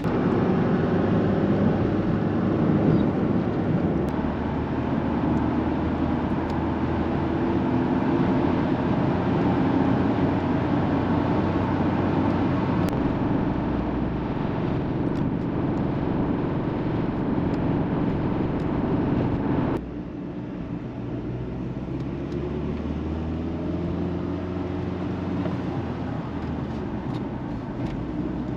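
Ford Ranger pickup driving, its engine running under road noise, with the engine pitch rising as it accelerates. The sound drops abruptly to a quieter level about two-thirds of the way through.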